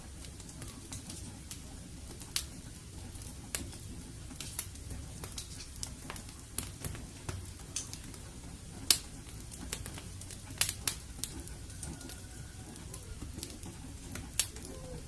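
Fireplace fire crackling: irregular sharp pops and snaps over a low steady rumble, a few of them louder.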